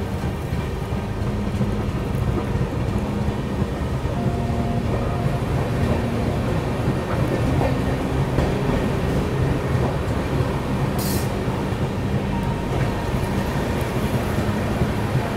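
Express passenger train coach running at speed on the track, a steady rumble heard at an open coach door, with a brief hiss about eleven seconds in.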